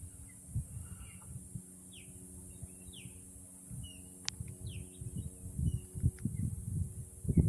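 Birds chirping in short, high, mostly falling notes, about ten scattered calls, over a faint steady low hum and low rumbling gusts on the microphone that swell near the end.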